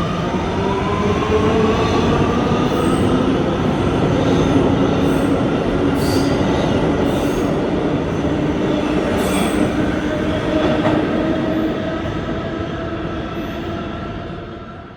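A Kawasaki R211A subway train's electric traction motors whine up in pitch as it gathers speed, over the steady rumble of its wheels on the rails, with a few short high squeaks. The sound fades over the last few seconds as the train pulls away.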